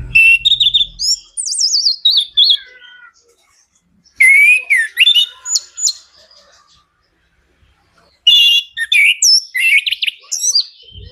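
Chestnut-capped thrush (anis kembang) singing loudly in three bursts of quick, varied whistles, slurs and trills, with short pauses between the phrases.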